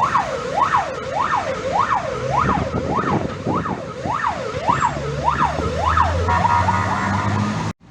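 Fire engine's electronic siren on its yelp setting: a fast rising-and-falling wail, a little under two sweeps a second, over a low engine hum. Near the end it changes to a steadier, harsher tone, then cuts off suddenly.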